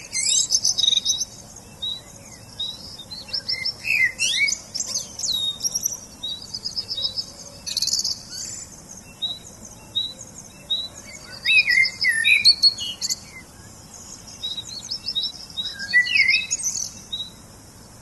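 Several songbirds chirping and singing: one bird repeats a short high note about twice a second while others add bursts of rapid trills and chirps.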